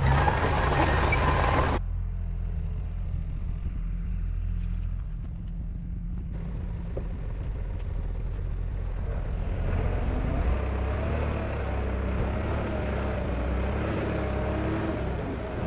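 Heavy diesel earth-moving machinery running with a steady deep rumble. About two seconds in, a loud hissing clatter cuts off abruptly and leaves mostly the low engine drone. Broader machine noise builds back from about six seconds, and a wavering whine rides over the engine later on.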